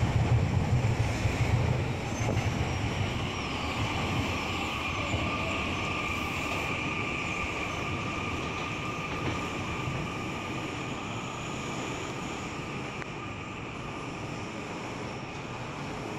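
Train running past on the line, its rumble loud at first and fading over several seconds as it moves away, with a steady high whine through the middle.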